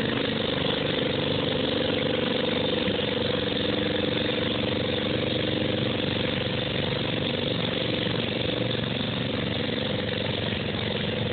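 12 hp garden tractor engine running steadily, holding an even pitch with no revving.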